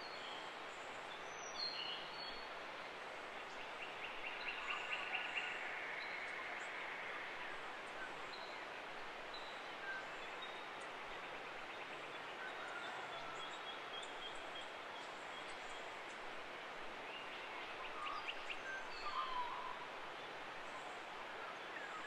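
Forest birds calling over a steady background hiss: scattered short high chirps and whistles, with a fast trill about four seconds in and another near the end.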